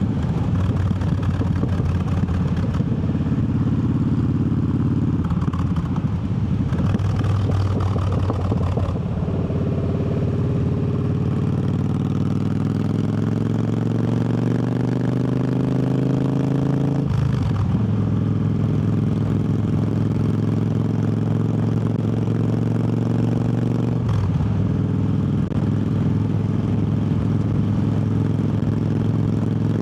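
Triumph Bobber's 1200 cc parallel-twin engine under way, pulling with its pitch climbing steadily for several seconds, then dropping suddenly as it shifts up about halfway through, with another shift near the end.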